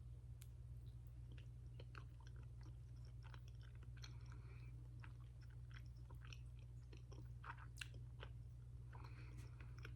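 Faint chewing of a soft matcha mochi: scattered small wet smacks and mouth clicks.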